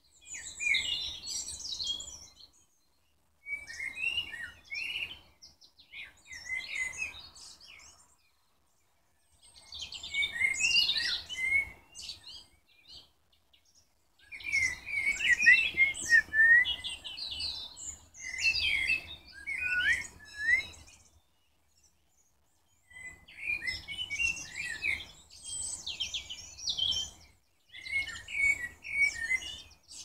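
Songbirds singing in short phrases of high, quick chirps and trills, with pauses of a second or two between phrases.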